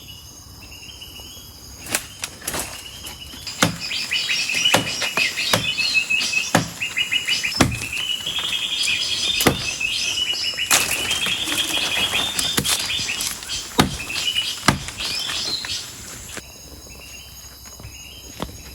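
A bird chirping in quick repeated trills and twitters, starting about four seconds in and stopping abruptly a couple of seconds before the end, with sharp knocks scattered throughout.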